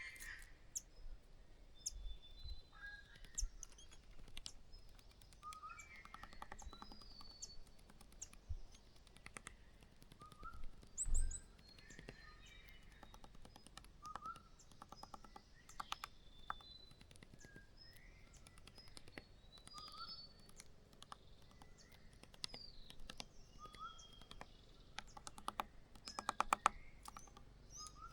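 Small birds chirping in short, scattered calls, mixed with sharp clicks and scratches at the nest, including a quick run of clicks near the end. A low thump about eleven seconds in is the loudest sound.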